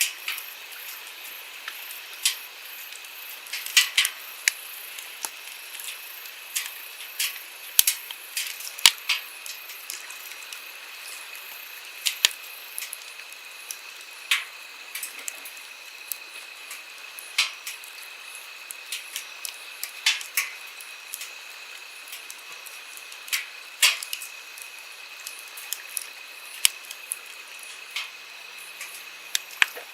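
Wood campfire crackling with irregular sharp pops and snaps, over the steady rush of a flowing stream.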